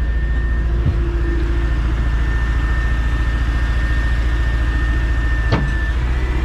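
Truck engine idling steadily, with two short knocks, one about a second in and one near the end.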